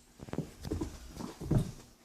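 A few soft, irregular thumps and scuffles, loudest about a second and a half in.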